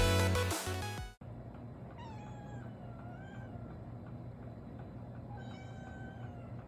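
Music cuts off about a second in, then a domestic cat meows twice over a low steady hum: a long wavering meow, then a shorter one near the end.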